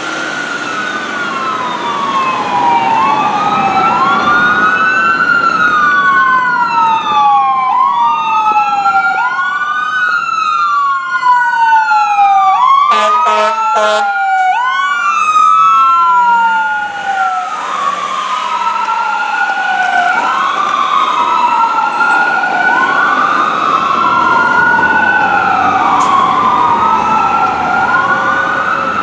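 Fire engine siren wailing on an emergency response, its pitch rising quickly and falling more slowly over and over about every two seconds. About halfway through, a short series of horn blasts sounds over it.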